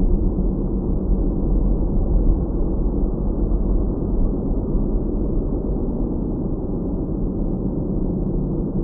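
Steady low rumble of a car's engine and tyre road noise, heard from inside the moving car.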